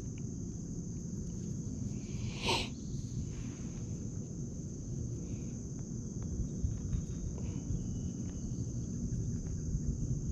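Steady high-pitched chorus of summer insects over a low rumble of outdoor noise, with one brief sharp sound about two and a half seconds in.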